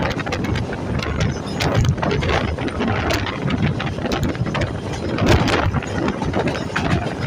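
Passenger train passing close by at speed: its wheels clatter and rattle over the rails in a dense stream of clicks and knocks over a steady low rumble.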